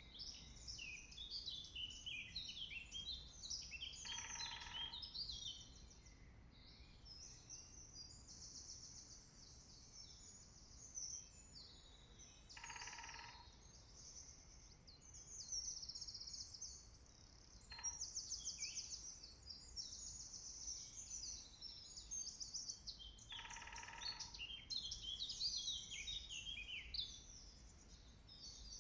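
Woodland birdsong: several songbirds sing high, overlapping phrases without a break. A lower call lasting about a second is repeated four times, with a short fifth note in between.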